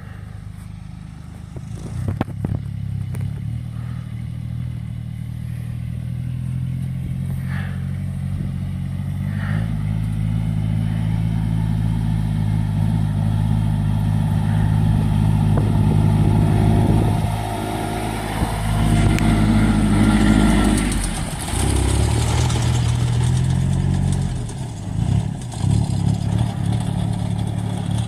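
A motorcycle engine running, its level building slowly, with changes in revs about three quarters of the way through.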